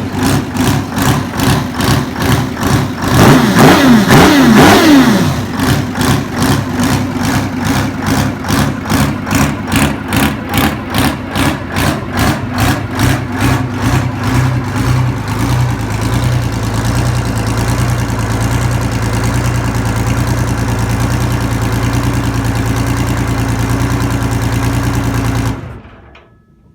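Detroit Diesel 6V53N two-stroke V6 diesel engine revved up and down a few times, then idling with a regular pulsing that evens out, before it is shut down and cuts off suddenly near the end.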